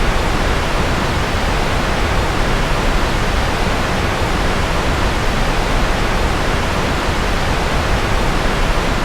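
Steady, unbroken rushing noise, heaviest in the low end and even throughout: a white-noise sleep track meant as rocket noise.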